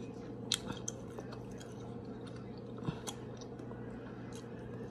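A person chewing shrimp with mouth smacks, with a few sharp clicks about half a second in and around three seconds in, over a steady low hum.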